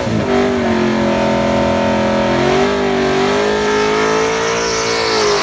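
Drag car's engine held at steady high revs, the pitch stepping up slightly about halfway through and easing off near the end.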